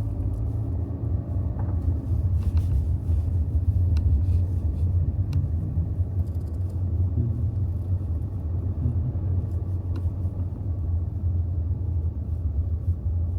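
A car driving slowly, its engine and tyre noise heard as a steady low rumble with a few faint clicks.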